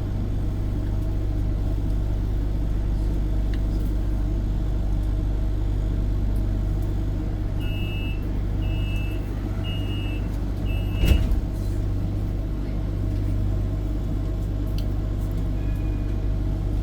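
Tram running with a steady low rumble heard from inside the car. About eight seconds in come four short evenly spaced high beeps, then a single sharp knock, the loudest sound. A lone shorter tone follows near the end.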